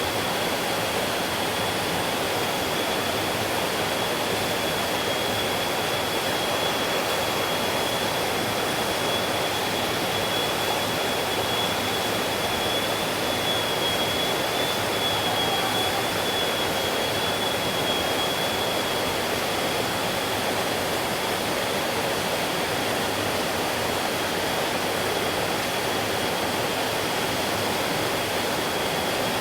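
Stream water flowing steadily over rocks, an even rushing hiss with no breaks. A thin, steady high-pitched tone runs over it, wavering slightly about halfway through.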